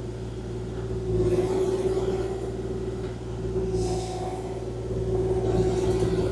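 Kubota KX040-4 mini excavator running under work, a steady diesel hum with a constant whine, the level swelling about a second in and again near the end as the machine is worked.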